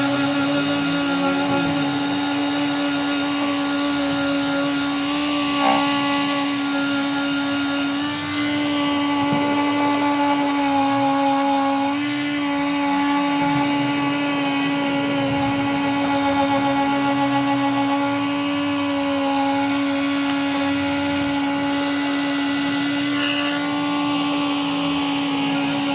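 Electric sander running steadily on hardened body filler, a constant-pitched motor hum that holds without a break.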